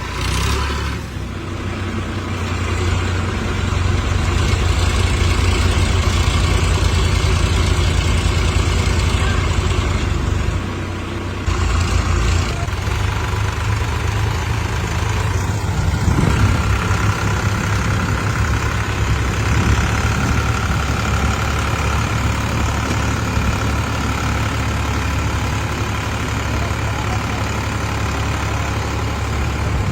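Tractor diesel engine running with a steady low, rhythmic note. The sound dips and shifts about 11 seconds in and changes again a few seconds later.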